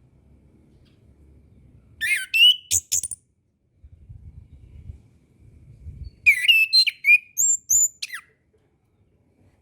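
Orange-headed thrush singing: two short phrases of quick, gliding whistled notes with thin, high notes among them, a few seconds apart. A faint low rumble sits beneath the song.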